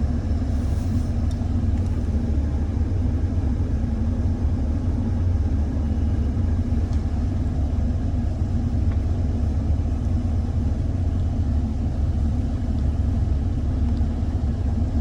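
1977 Chevrolet Caprice Classic's engine running steadily, with the air conditioning switched on at max. A constant low rumble.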